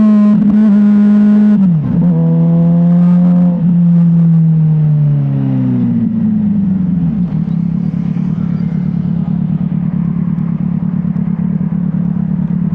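Motorcycle engine running while riding, its pitch rising and dropping with gear changes in the first few seconds. It then falls away and settles to a steady, lower running note.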